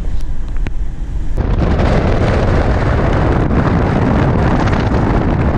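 Wind buffeting the microphone, a loud, steady rumbling that sets in suddenly about a second and a half in.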